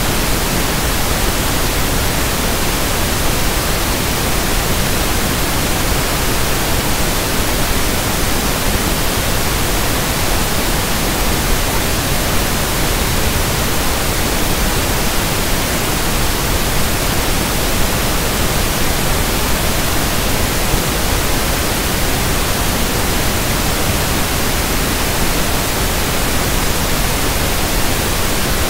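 Steady, unchanging synthetic pink noise (1/f noise): an even hiss.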